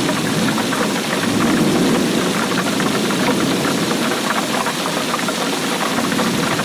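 Steady heavy rainfall, a dense, even spatter of drops on a hard surface.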